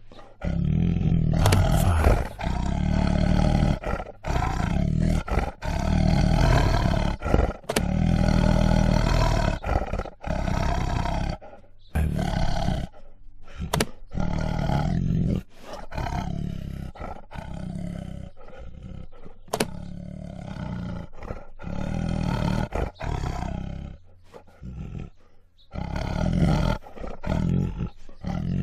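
Tiger growling and roaring in a series of deep, rough calls, each a second or a few seconds long, with short breaks between them.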